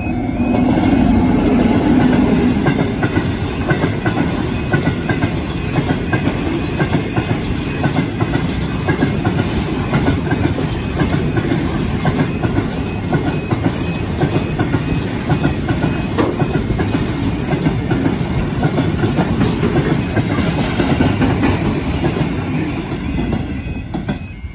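Diesel freight locomotive passing close by, its engine loudest for the first couple of seconds. A long train of covered steel-coil wagons follows, rumbling past with wheels clattering steadily on the rails. The sound drops away near the end as the last wagon clears the crossing.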